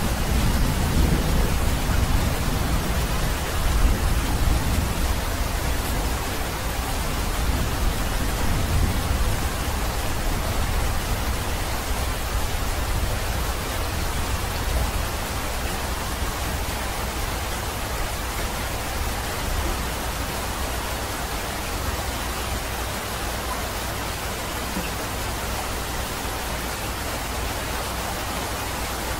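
Steady rainfall, an even hiss of rain on leaves and ground. A low rumble of distant thunder fades away over the first few seconds.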